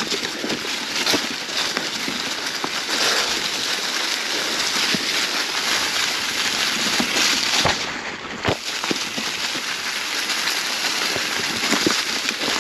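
Mountain bike tyres rolling fast over a trail thickly covered in dry fall leaves, a steady crunching rustle dotted with many small clicks and knocks from rocks, twigs and the bike rattling.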